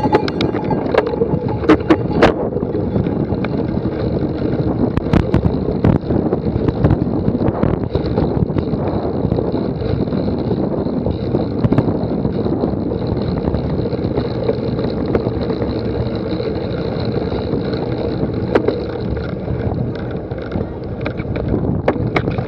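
Wind rushing over a moving microphone, with scattered knocks and rattles of a cyclocross bike riding over rough ground, most of them in the first few seconds.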